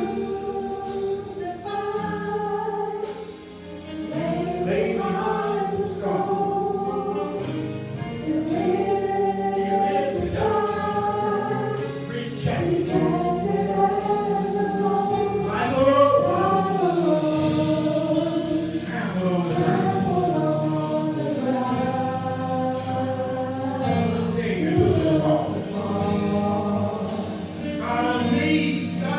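Gospel choir singing a slow praise song with instrumental accompaniment.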